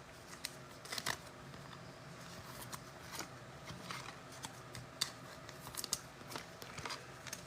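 Trading cards being handled and flipped through: faint scattered clicks and soft slides of card stock, a dozen or so irregular ticks over a low room hum.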